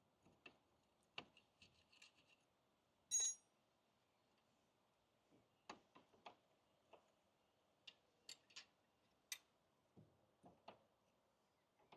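Scattered metallic clicks and knocks from tools and brake caliper parts being worked on a stuck caliper that won't come off, with one louder clink that rings briefly about three seconds in.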